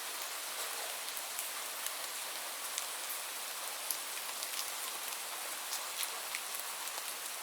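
Steady rainfall: an even hiss with many small, sharp drop ticks scattered through it.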